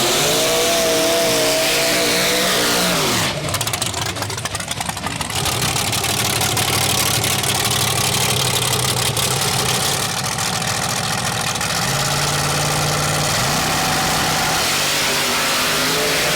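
Small-block V8 drag-racing engine revving and running hard. It dips in pitch about three seconds in, goes through a rough crackling stretch, then runs loud and steady and climbs again near the end.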